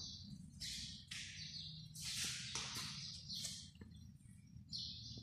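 Birds chirping in the background, a string of short high-pitched chirps about two a second, over a faint low rumble.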